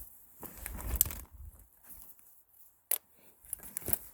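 Handling noises of plastic maple sap tubing and fittings being worked by hand, with a few sharp clicks, about one a second, from about a second in.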